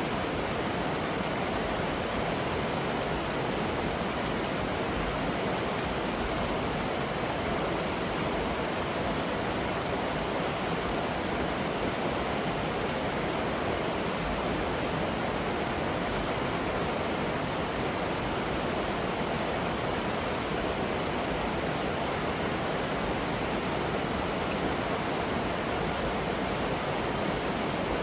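Steady rushing of a waterfall close by, an even noise with no break or change.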